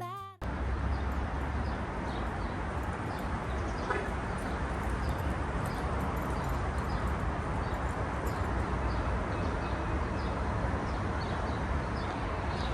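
Outdoor ambience: a steady low rumble and hiss with many faint, short bird chirps scattered throughout.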